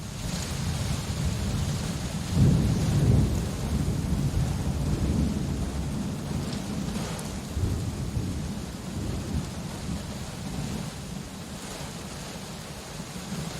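Steady rain with rolling thunder: a low rumble swells to its loudest a couple of seconds in, then slowly fades under the rain.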